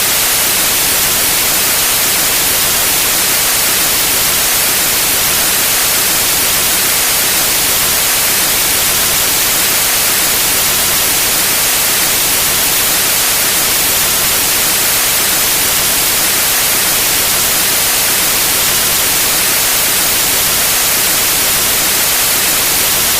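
Steady synthetic white noise: an even, unchanging hiss, loudest in the high frequencies.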